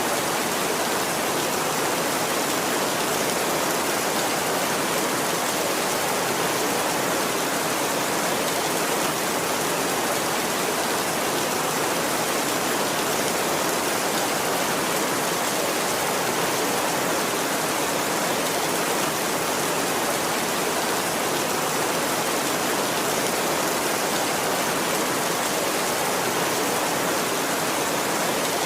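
Heavy rain falling steadily and evenly on a tin roof, with no thunder.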